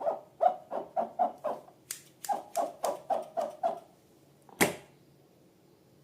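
Slime being squished by hand: a quick series of wet squelches, about three a second, stopping about four seconds in, then a single sharp click.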